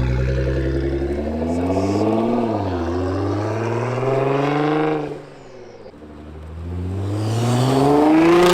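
Nissan GT-R R35's twin-turbo V6 accelerating hard through an ArmyTrix Valvetronic stainless exhaust. The pitch climbs, dips briefly at a gear change and climbs again, then drops sharply as the throttle is lifted about five seconds in. It builds once more to its loudest near the end.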